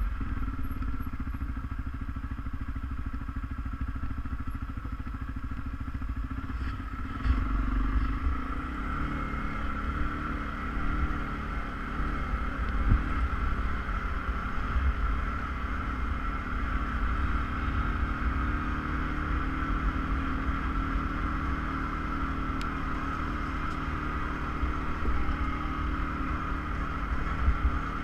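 ATV engine running steadily under way, shifting up in pitch and level about seven seconds in, with low rumble and wind buffeting on the camera microphone.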